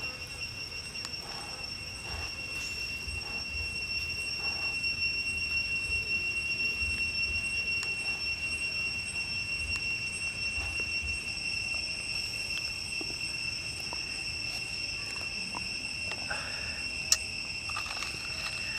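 Steady high-pitched insect trill, holding one pitch without a break, over faint low rumble and scattered light ticks, with a single sharp click about 17 seconds in.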